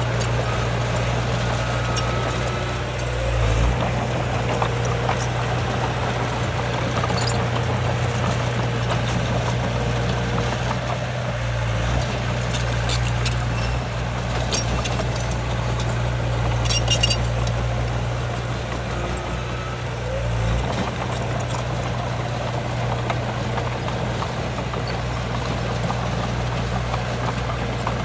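Heavy diesel earthmoving engine running steadily as a low drone, its tone shifting briefly twice, with scattered metallic clicks and clanks, most of them a little past the middle.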